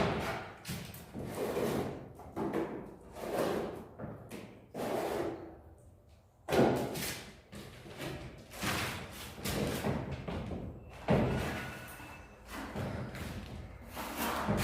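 Plastering tools working gypsum plaster on a ceiling: irregular scraping strokes and knocks as the plaster is spread and slapped on, with a few sharper thumps.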